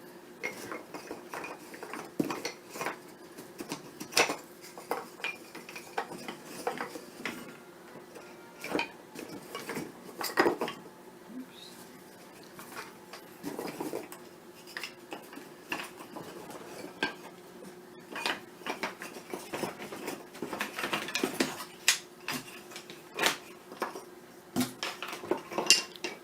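Loose wooden beehive frame pieces being handled, clattering and knocking against each other in irregular clusters of sharp clicks, over a faint steady hum.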